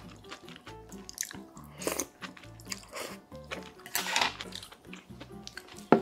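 Close-miked eating of spicy beef soup (yukgaejang): a few short bursts of slurping and chewing as the stringy beef and vegetables are eaten, heard over background music with a bass line. Just before the end there is one sharp knock.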